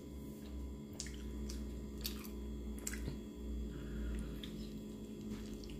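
A person biting into and chewing a big, overstuffed soft taco: wet chewing with sharp little mouth clicks and smacks, about one every half second, over a steady low hum.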